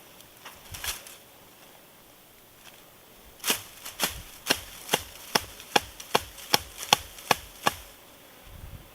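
A run of about eleven sharp knocks, evenly spaced at roughly two and a half a second, beginning a few seconds in, with a few fainter knocks before them.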